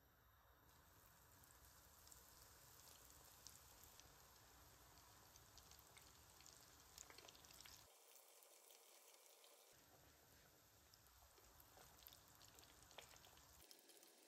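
Faint sizzling and crackling of breaded chicken nuggets shallow-frying in bubbling oil in a pan, with scattered small pops.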